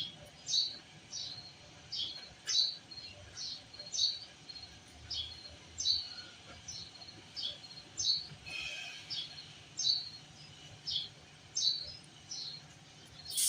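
A small bird chirping over and over, about two short, high, falling chirps a second, over a faint steady low hum.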